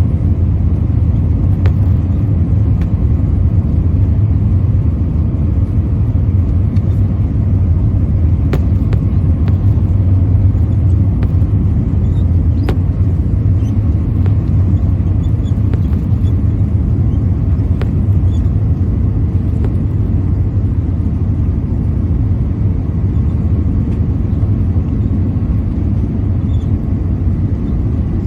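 Steady low rumble of an Airbus A320's engines and airflow heard from inside the passenger cabin, with a few faint clicks.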